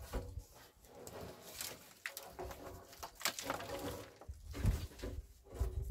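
A bird cooing in short, low calls.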